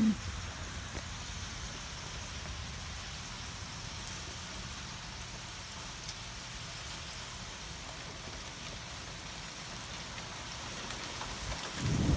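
Steady rain falling, an even hiss. Near the end, a loud low rumble of thunder begins.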